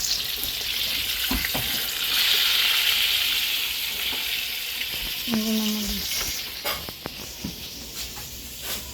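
Eggplant omelette (tortang talong) frying in oil in a pan: a steady sizzle, with a few sharp clicks of a utensil against the pan. The sizzle eases after about six seconds.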